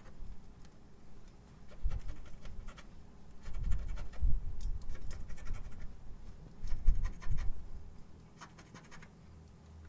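A scratch-off lottery ticket being scratched in short bouts of scraping with pauses between them.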